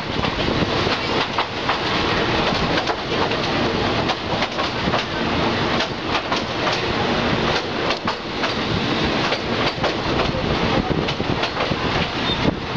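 Passenger train running along the track, heard from an open carriage window: a steady rumble of wheels and rushing air, with repeated irregular clacks as the wheels cross rail joints.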